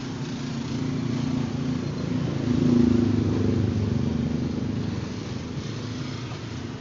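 A motor vehicle engine running steadily, growing louder to a peak about three seconds in and then fading, as when it passes by.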